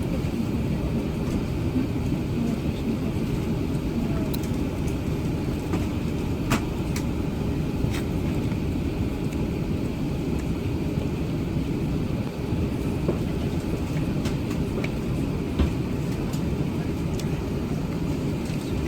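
Steady low rumble of an Airbus A380-800 heard from inside the passenger cabin, with a few faint clicks and knocks scattered through it.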